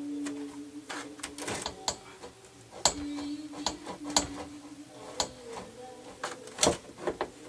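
Tools and parts of a Rock-ola 443 jukebox cabinet being handled during disassembly: a string of sharp clicks and knocks, the loudest about three seconds in and near the end, over a low hum that comes and goes.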